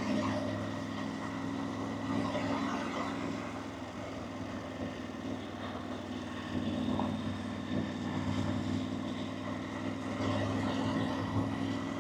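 Motorcycle engine running at a steady cruise, a constant drone, with wind rushing over the microphone.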